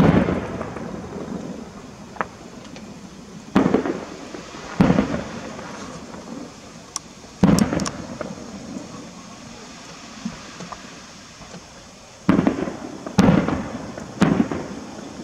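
Aerial firework shells bursting in a series of booms, each trailing off in a rolling echo. They come a few seconds apart, with three in quick succession near the end.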